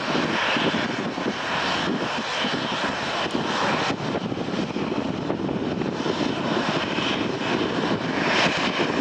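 Passenger jet airliner's engines running with a steady, even rush of noise.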